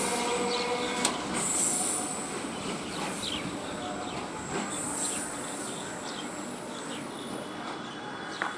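BEML-built electric multiple unit train running on the rails, with its wheels squealing high at intervals and a couple of sharp clicks; a pitched hum stops about a second in and the train noise slowly fades.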